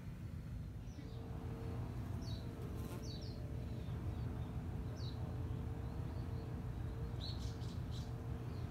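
Small birds chirping: short, high chirps scattered through, with a quick cluster of several near the end, over a steady low background hum.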